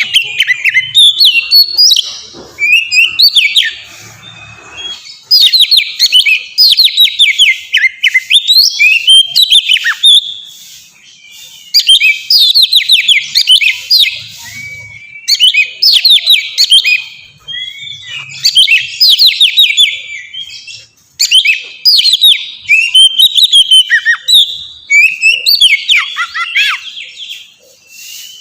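Oriental magpie-robin (kacer) singing loudly and continuously in long, varied high-pitched phrases. The phrases are made of rapid runs of falling whistled notes, with short pauses between them.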